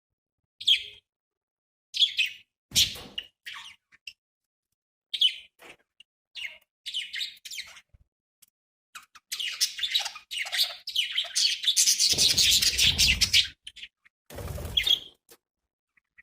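Budgerigars chirping and warbling in short high calls, scattered at first, then a dense, loud stretch of chatter from about ten seconds in. Low rustling or bumping sounds under some of the loudest chatter.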